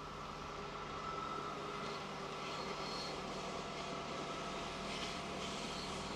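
Diesel inspection railcar approaching along the line, its engine hum and running noise growing slowly louder.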